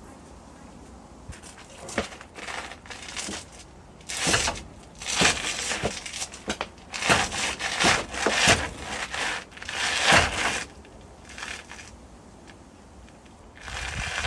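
Hand tools clanking and scraping on metal in irregular bursts, with a few sharp knocks, while a wrench is worked on the crankshaft bolt of a seized engine.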